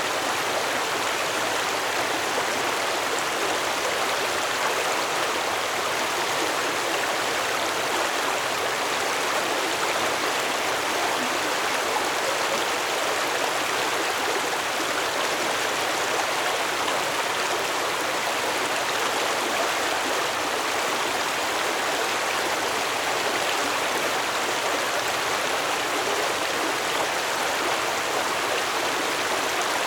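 Stream water flowing steadily over rocks, an even rushing and burbling.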